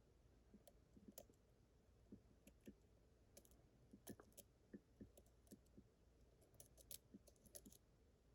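Faint, irregular clicks of a lock pick and tension wrench working the pins of a Yale Superior pin-tumbler lock, with a few sharper clicks in the second half as the picker works on the last unset pin.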